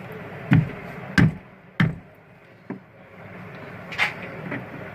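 Three sharp knocks of hard objects striking, about two-thirds of a second apart, then two fainter knocks later.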